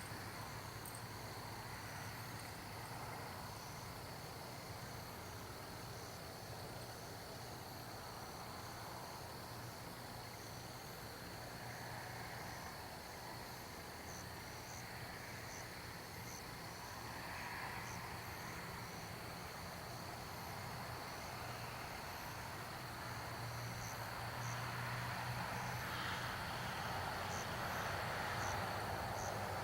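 Crickets trilling steadily in the night, with regular short chirps above the trill. A distant airplane's low rumble grows louder over the last few seconds.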